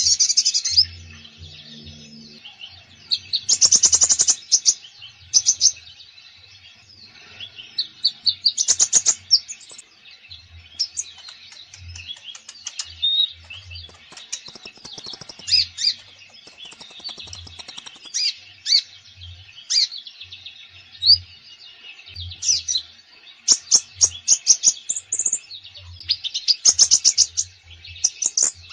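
Caged konin songbird singing a long, varied song: bursts of fast chirping trills and short whistled notes, one after another with brief gaps.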